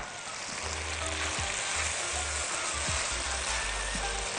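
Sliced red onion and chicken pieces sizzling steadily in a hot frying pan over high heat. The onion has just gone in, and near the end it is stirred with a spatula.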